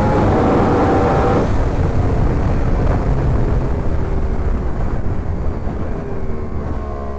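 Yamaha R1's inline-four engine running at a steady cruise under heavy wind rush. About a second and a half in the rider eases off and the engine note slowly falls.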